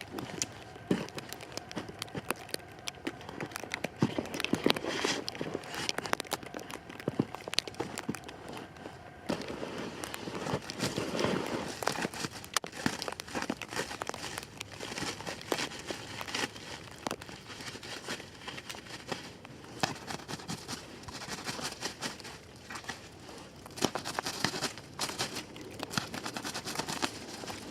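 Plastic wrap (saran wrap) rustling and crinkling as it is pulled and worked by hand, with many irregular sharp clicks and crackles.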